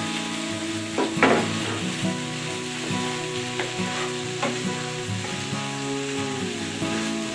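Food sizzling in a frying pan while it is stirred, with a sharp utensil knock about a second in and a few lighter clicks.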